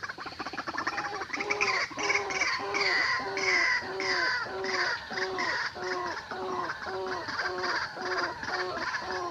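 White-breasted waterhen (ruak-ruak) calling: a fast rattle that turns, about a second in, into a long, even series of repeated arched croaking notes, roughly two and a half a second.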